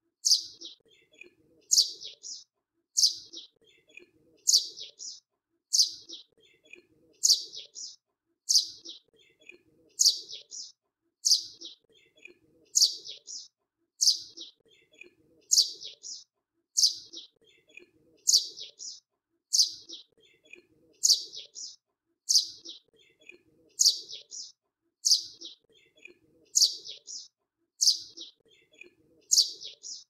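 Small bird's high chirps: the same short phrase, one bright chirp followed by two or three quicker, fainter ones, repeating evenly about every second and a half, over a faint low murmur.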